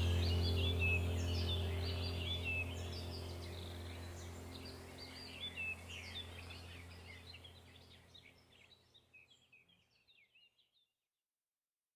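A chorus of small songbirds chirping and singing over a steady low hum, the whole gradually fading out to silence about two-thirds of the way through.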